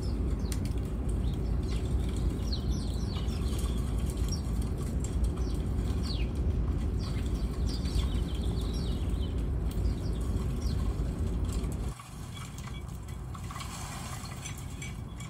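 Many small birds chirping in quick, short downward notes over a steady low rumble. About twelve seconds in, the sound drops suddenly to a quieter rumble and the chirps thin out.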